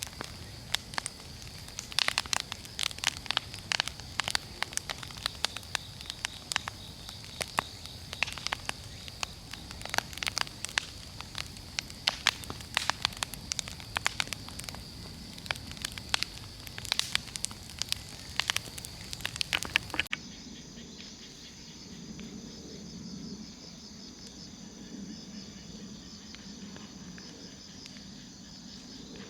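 Big wood bonfire crackling, with many sharp pops and snaps over a steady high insect buzz. About twenty seconds in the crackling cuts off abruptly, leaving insects trilling in a pulsing chirr with a low hum under it.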